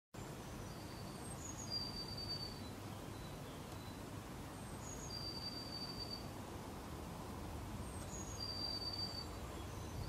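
A small songbird's high, thin song: a few short notes stepping down in pitch, then one long steady note, repeated three times about three seconds apart over a steady outdoor background hiss.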